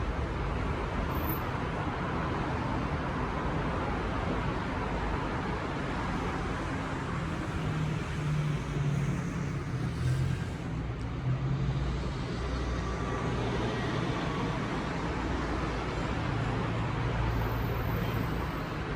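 Steady road-vehicle noise: a low engine hum that shifts up and down in pitch over a constant rush of road noise.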